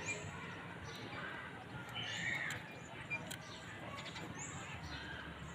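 A small bird calling, short high rising chirps repeated every second or two, with a few light clicks in the middle.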